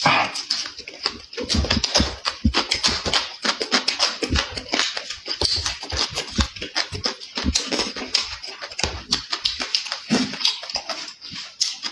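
Close-miked chewing and mouth smacking of someone eating, a dense run of quick clicks and smacks.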